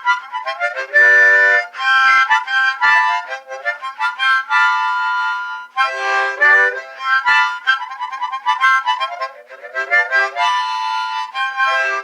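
Harmonica played solo, quick runs of notes mixed with held chords.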